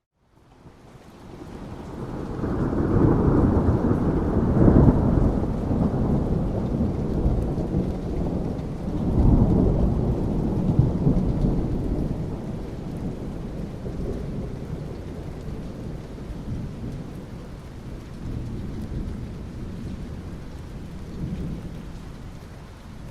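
Rolling thunder over steady rain. The deep rumble swells up over the first couple of seconds and peaks twice, about five and ten seconds in, then slowly dies away while the rain keeps falling.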